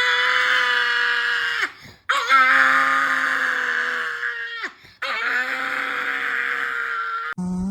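A dog howling: three long, steady held howls, each about two seconds, each dropping in pitch as it ends.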